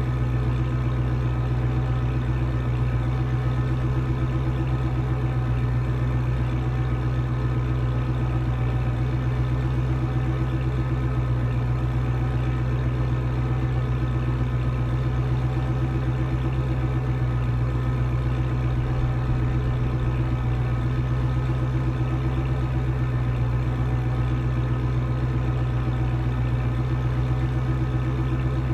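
Engine idling steadily: an unchanging low hum with a strong low note and even overtones, with no revs.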